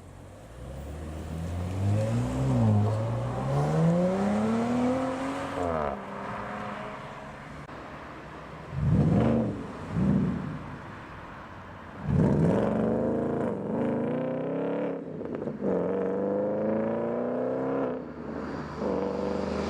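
Audi cars' engines accelerating away. The first pulls up through the revs with a gear change, then there are two quick throttle blips a few seconds apart, then another car accelerates hard through several upshifts.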